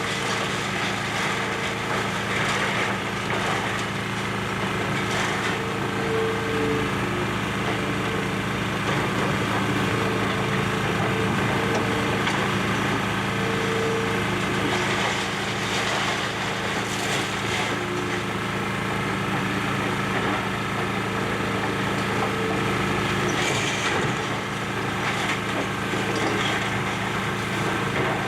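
Excavator's diesel engine running steadily under load, with an on-and-off whine. Scattered cracking and crunching of building debris being broken during demolition.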